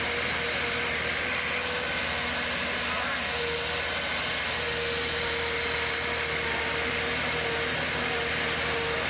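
A heavy vehicle's engine running steadily, with a steady whine over a dense mechanical noise.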